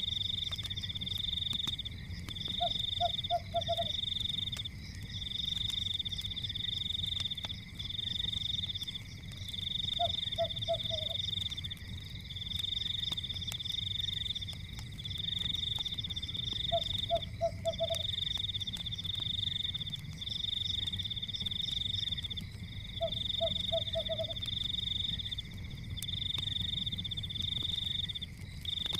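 Night-time nature ambience: a loud, high, pulsing trill chorus that comes in bursts about a second and a half long, one after another, over a steady lower hum of calls. A short four-pulse lower call repeats about every six to seven seconds. Underneath are a low rumble and faint scattered crackles from a fireplace.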